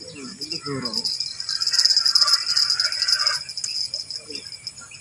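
High, fast-pulsing insect buzz, swelling loud about a second and a half in and fading back after about three seconds.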